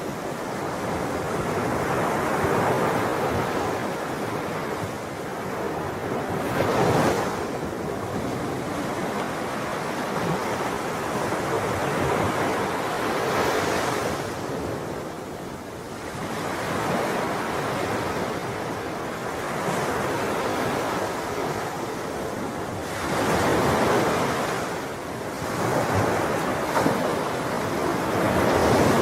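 Sea waves breaking and washing on a shore, a continuous rush that swells and eases every several seconds.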